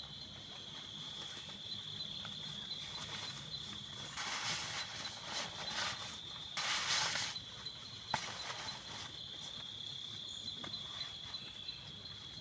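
An insect singing a steady, high trill throughout. Brief rustling comes about four and seven seconds in, and there is a single sharp click near eight seconds.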